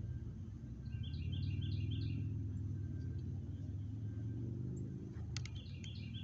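A songbird sings a short phrase of four quick repeated notes about a second in, and repeats it near the end, over a steady low rumble.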